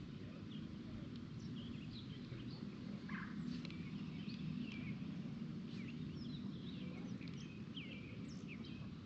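Several wild birds chirping and calling in quick, overlapping short notes over a steady low rumble.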